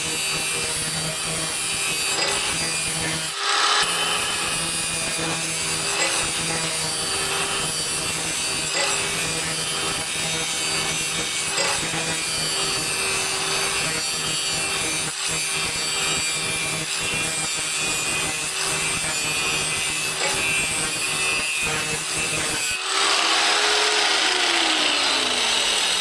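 Angle grinder grinding the cutting edge of a steel lawn mower blade to sharpen it, a steady hum under a continuous rasping scrape. Near the end the grinding stops and the motor's pitch falls as it winds down.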